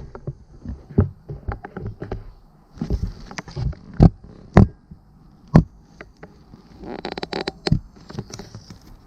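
Handling noise: irregular knocks, taps and short rustles of recording gear being handled and set down close to the microphone.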